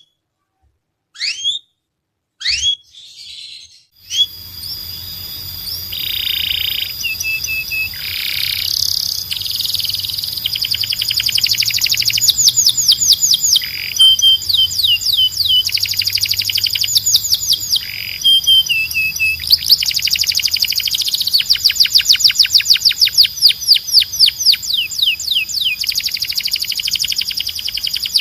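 Domestic canary singing: a few separate short chirps at first, then from about four seconds in a continuous loud song of fast rolling trills, repeated note series and brief held notes.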